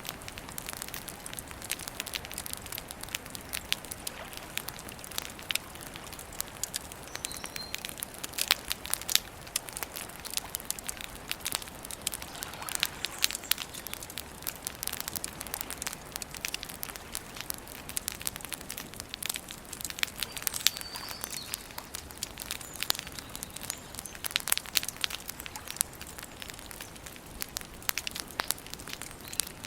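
Wood campfire burning, crackling steadily with many sharp pops over a soft hiss.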